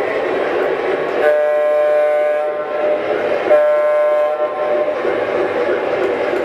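Model train locomotive's onboard sound system sounding two long blasts, about a second apart, over steady background noise.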